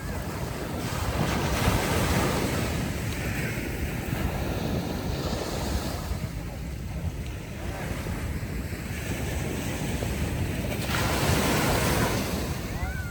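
Ocean waves washing onto a beach, with wind buffeting the microphone. Waves surge in about a second in and again near the end.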